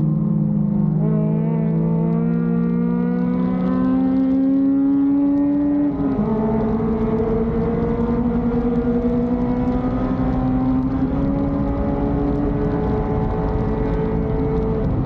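Honda Civic race car engine under hard acceleration, its pitch climbing for about six seconds. An upshift then drops the revs sharply, and the pitch climbs slowly again through the next gear.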